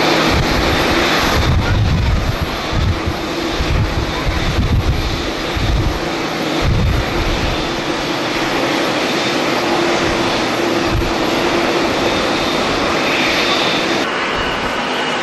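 Jet airliner engines running in a steady, loud rush with a thin high whine. In roughly the first half, strong wind gusts buffet the microphone in low, uneven thumps.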